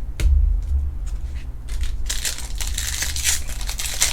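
Trading-card pack wrapper crinkling and rustling as it is handled and torn open, with low handling thumps in the first two seconds and the crinkling growing dense from about halfway through.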